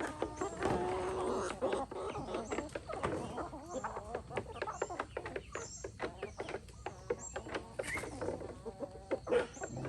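Free-range chickens clucking, with a run of short pitched calls in the first couple of seconds and many brief clicks and taps throughout.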